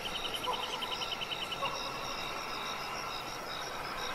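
Insects trilling in a natural night-time-style ambience: a fast pulsing cricket-like chirp that stops about a third of the way in, over steadier high trills, with a couple of faint short chirps.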